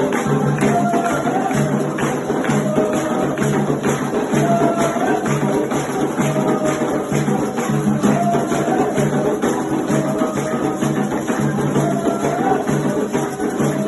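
Afro-Brazilian religious music for Xangô: steady hand-drum rhythm with a jingling rattle or tambourine-like percussion, and voices singing a chant over it.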